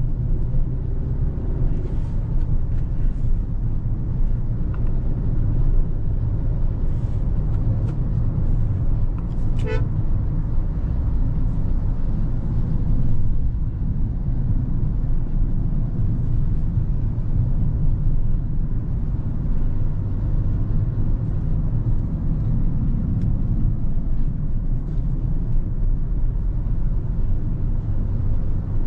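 Steady low rumble of a Hyundai Creta petrol manual on the move, heard from inside the cabin, with one short car-horn toot about ten seconds in.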